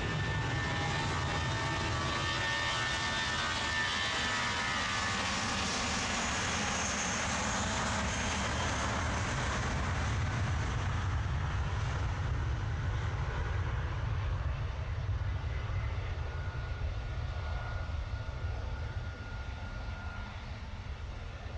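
Airliner engines running close by on the runway: a steady low rumble with a high whine over it for the first few seconds, the whine dying away and the rumble easing slightly near the end.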